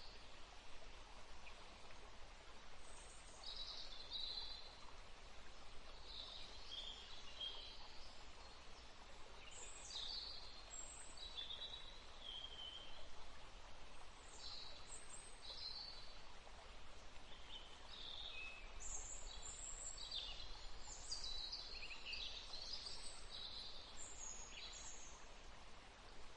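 Birds chirping and calling in short, high notes, scattered and growing busier in the second half, over a faint steady outdoor background hiss.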